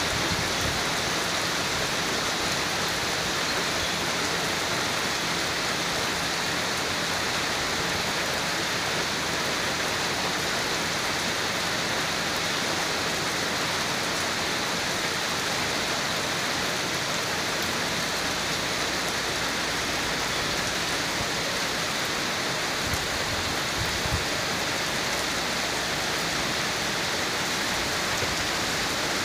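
Heavy rain falling steadily on wet ground and standing puddles, an even hiss of rain that does not let up.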